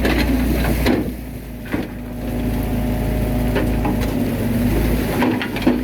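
Bulldozer's diesel engine running with a deep, steady drone, with a few knocks.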